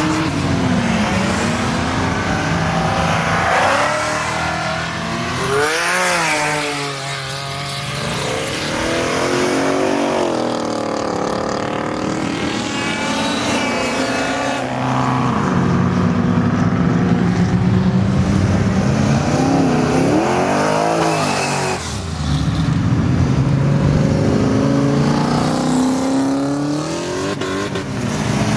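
Modified cars driving past on a race track one after another, their engines revving up and swooping down in pitch as each goes by, with several passes over the stretch.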